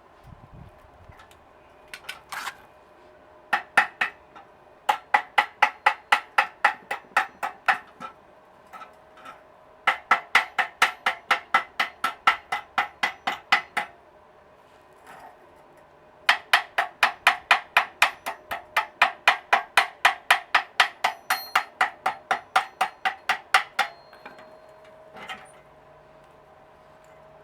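Rapid hammer blows, about four strikes a second, in several runs of a few seconds each with short pauses between.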